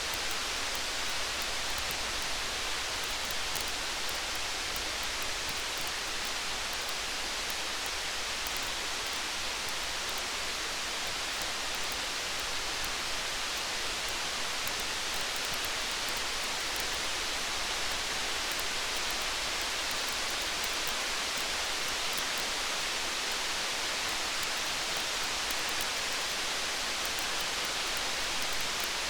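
Steady rain falling, an even hiss with no pauses, with faint small crackles of a campfire scattered through it.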